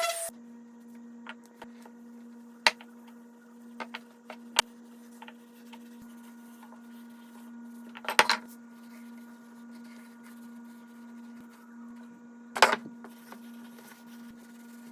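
Steady low hum with a few sharp wooden clicks and knocks scattered through it, as small wooden box parts are handled and set down. The two loudest come as short rattly clusters, one past the middle and one near the end.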